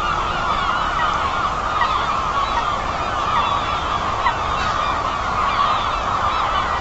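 A large flock of geese honking, many calls overlapping into a dense, continuous chorus at a steady level.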